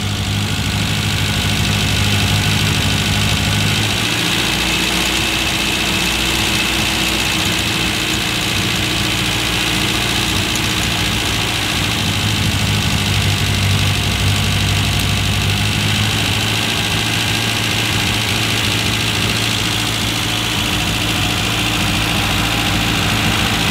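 Classic Mini's A-series four-cylinder engine running steadily at a raised idle of about 1500 RPM, held there while the ignition timing is set.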